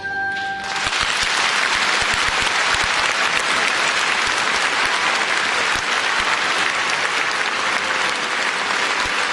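The orchestra's last held note stops about half a second in, and a concert audience breaks into loud, steady applause.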